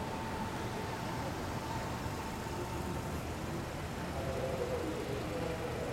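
Road vehicles' engines running, a steady low rumble of traffic, with a faint pitched hum coming in about two-thirds of the way through.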